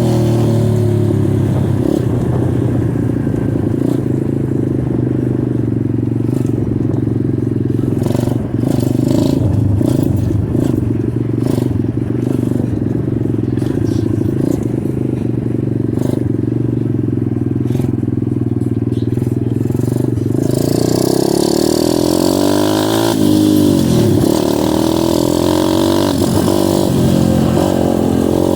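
Dirt bike engine running under way on a trail, holding a steady pitch. About two-thirds of the way through it revs up and down.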